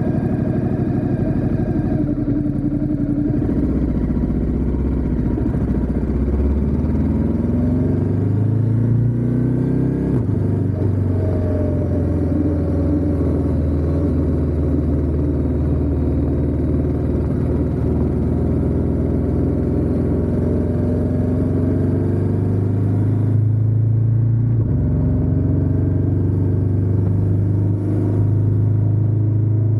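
Ducati Diavel 1260S motorcycle's 1262 cc L-twin engine and exhaust under way on the road. The engine note rises through gears in the first several seconds, then holds a steady pitch at cruise, and changes pitch again a little past three quarters of the way through.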